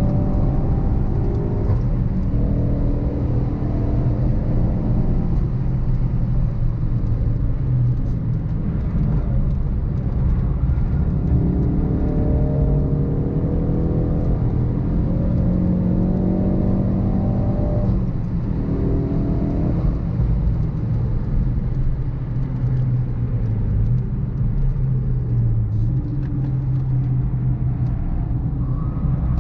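Mk3 Ford Focus RS's 2.3-litre turbocharged four-cylinder engine under hard acceleration on track, its pitch climbing through each gear and dropping at the shifts, with one long climb in the middle.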